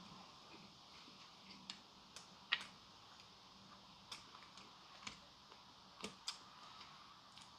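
Faint, irregular small clicks and ticks, about a dozen, the loudest about two and a half seconds in, over a very quiet room.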